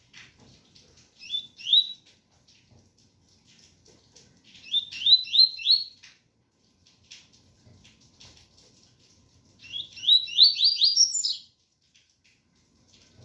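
Double-collared seedeater (coleiro) singing its 'tui-tui' song: three phrases, each a quick run of rising whistled notes. The last phrase is the longest and climbs higher at its end.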